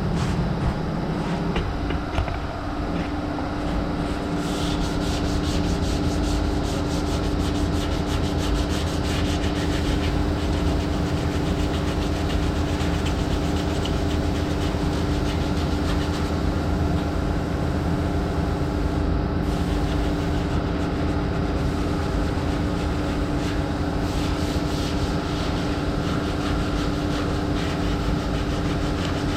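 Power sander running steadily against a car body panel, a continuous rough abrasive rasp over an even motor hum.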